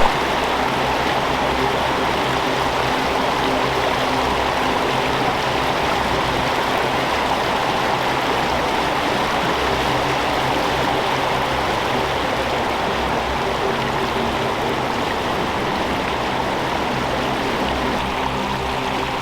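A fast-flowing brook rushing steadily over rocks, heard from close by in midstream. Soft background music with low held notes sits underneath.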